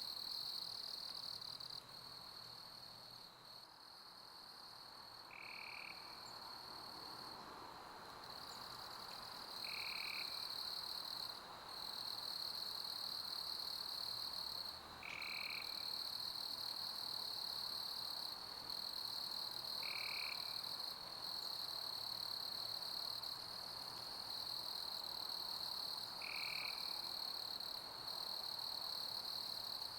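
A chorus of summer crickets singing a continuous high trill. A short, lower call cuts in about every five seconds.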